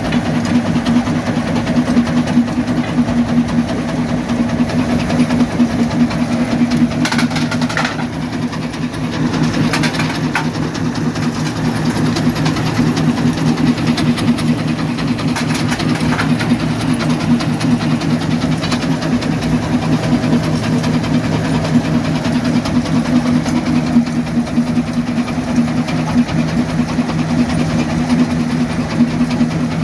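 Quarry jaw crusher running steadily with a deep, fast-pulsing drone, and a few sharp cracks as rock breaks, about seven, ten and sixteen seconds in.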